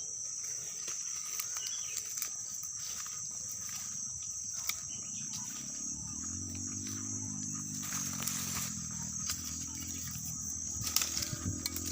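Steady high-pitched chorus of crickets or similar insects. About halfway through, a low droning hum joins it and holds to the end.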